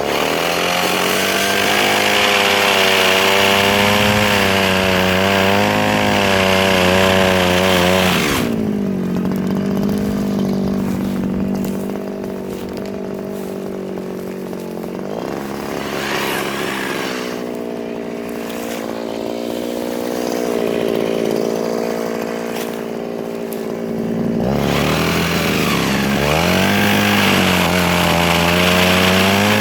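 Mini chainsaw cutting softwood, its motor note wavering under load with a rasping cutting noise. About eight seconds in it runs quieter and steadier for roughly sixteen seconds, then the loaded cutting sound returns near the end.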